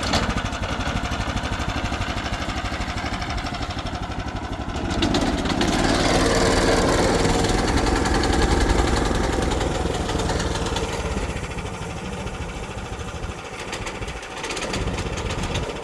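Portable band sawmill's gasoline engine starting and running, growing louder for a few seconds in the middle and then settling back; the operator suspects the choke is still on.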